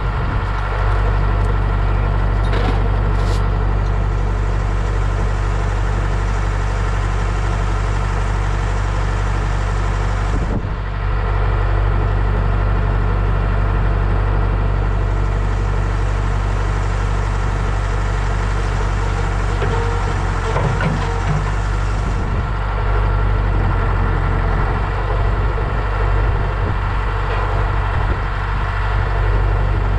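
An engine idling steadily, with a brief dip about ten seconds in. A hiss higher up comes and goes over it.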